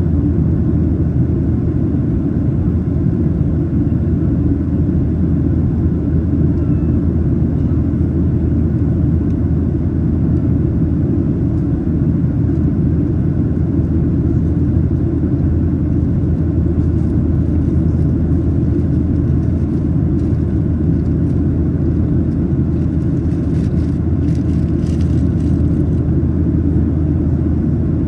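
Steady cabin noise of a Boeing 737-800 in its climb: the CFM56-7B engines and rushing air make an even low rumble. A few faint clicks or rattles come in the second half.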